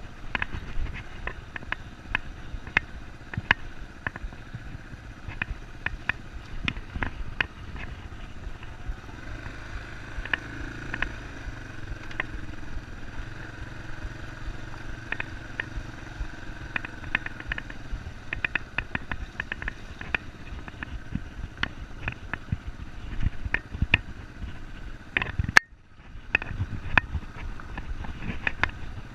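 Yamaha Serow enduro motorcycle's single-cylinder engine running on a ride over rough ground, with many knocks and rattles throughout. Near the end there is a sharp click, then a moment where the sound almost drops out.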